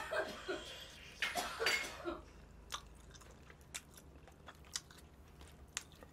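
Close-miked biting and chewing of sauced Zicoba chicken. A few loud, wet bites and chews come in the first two seconds, then quieter chewing with scattered small clicks.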